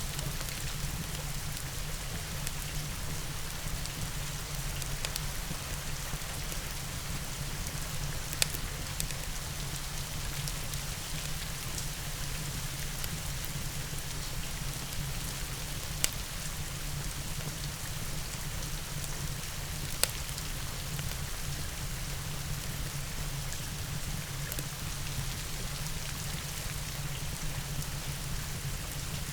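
Steady rain falling, with a wood fire's occasional sharp crackles, three louder single pops standing out.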